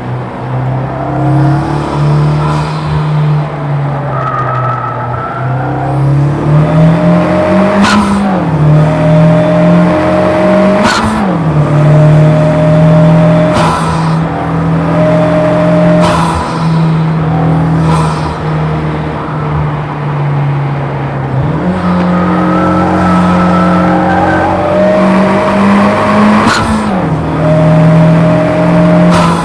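Honda Civic FK8 Type R's turbocharged 2.0-litre four-cylinder pulling hard on track. The engine pitch climbs and then drops sharply at upshifts several times, with stretches held at a steady pitch between them.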